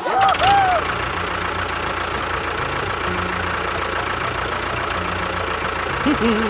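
A small motor running steadily, with a few short high warbling sounds in the first second.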